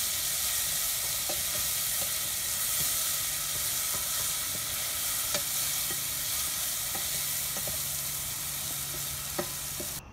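Curry paste with garlic, shallots and ginger sizzling in hot oil in a stainless steel pot, stirred with a wooden spatula that knocks lightly against the pot a few times. The sizzle is a steady hiss that cuts off suddenly at the very end.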